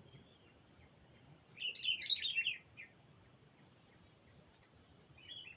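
Small songbird chirping: a quick run of high, rapid notes lasting about a second, starting about a second and a half in, then a shorter chirp near the end.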